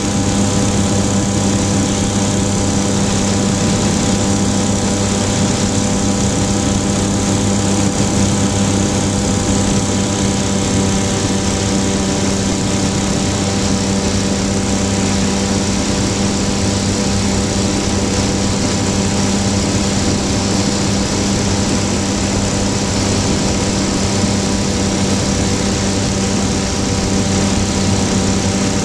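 Flightstar II light-sport aircraft's engine and propeller running at a steady speed, with no change in pitch or loudness, over a steady hiss.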